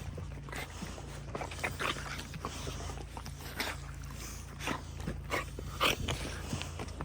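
Dogs moving and handling things at close range: scattered short irregular scuffs and clicks over a steady low hum.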